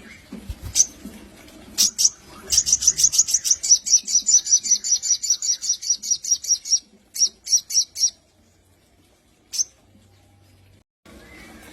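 A sogon (crimson sunbird) singing: a few sharp, high chirps, then a rapid run of high chirps, about ten a second, lasting some four seconds, a brief burst more and one last chirp.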